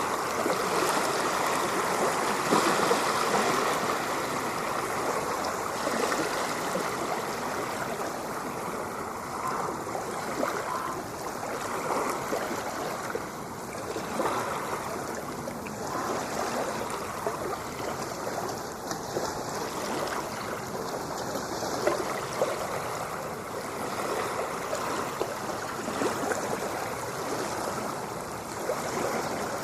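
Ocean surf washing and churning steadily, a slightly louder swell in the first few seconds.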